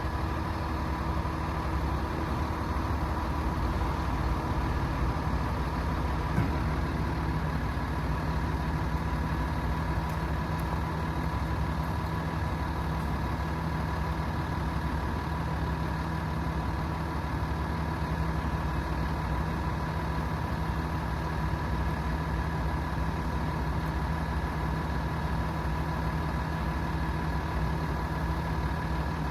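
Hino 338 truck's 7.6-litre turbo diesel engine idling steadily, with a constant whine held above the engine note.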